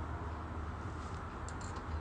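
Wood fire burning in a folding fire stand, with a few faint sharp crackles from about a second and a half in over a steady low rumble.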